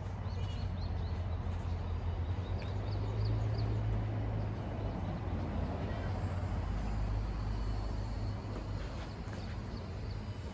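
Steady low background rumble outdoors, like distant traffic, swelling a little about three to four seconds in.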